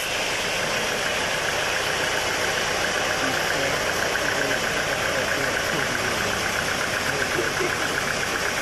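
Sawmill machinery running steadily: a motor-driven saw or its engine, a continuous mechanical noise with a fast, even pulsing in it.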